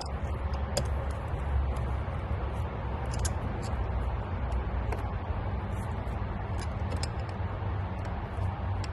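Scattered light clicks and taps from pliers working on hose clamps, over a steady low rumble.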